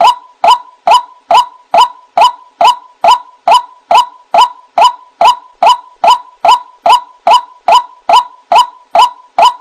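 White-breasted waterhen (ruak-ruak) giving its monotonous call: short, identical notes repeated evenly about twice a second, played as a looped lure recording for trapping the bird.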